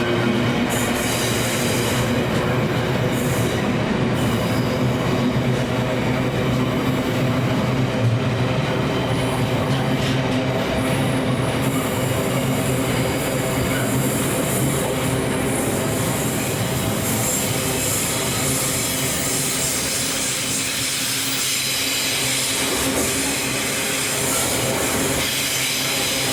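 A train moving through, wheels squealing on the rails over a steady low hum, running on without a break.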